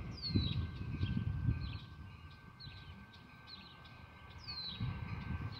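Birds chirping: short high chirps repeated every half second or so, with a downward-sliding whistled note near the start and again near the end. A low gusty rumble underneath is loudest in the first two seconds and dies away.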